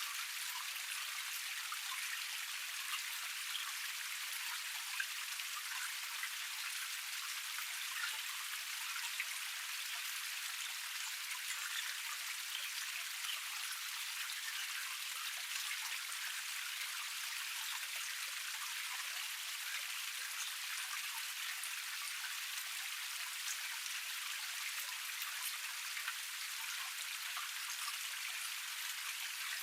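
Water of a small cascade splashing steadily: an even hiss of falling water, flecked with many small droplet splashes, with no deep rumble.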